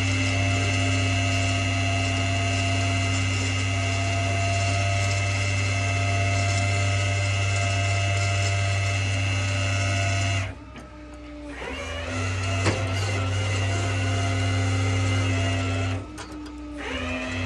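Flatbed tow truck's hydraulic system running with a steady low drone and whine as the bed or winch is worked. It cuts out briefly about ten seconds in and again near the end, then comes back on.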